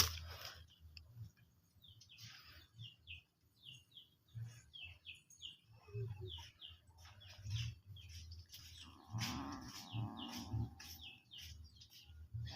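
A bird calling a long run of short, high, falling chirps, about two to three a second. About nine seconds in there is a lower animal cry lasting a second or so.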